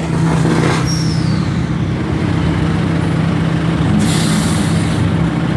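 Steady low rumble of vehicle engines running. About four seconds in comes a sharp hiss of released air lasting about a second.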